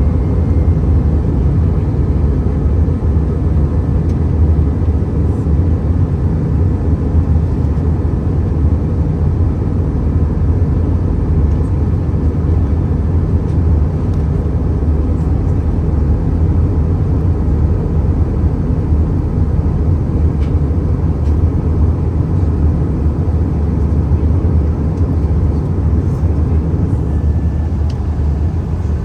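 Steady cabin noise of an Airbus A320neo airliner in flight on approach: an even, low rumble of airflow and engines with a faint thin whine above it.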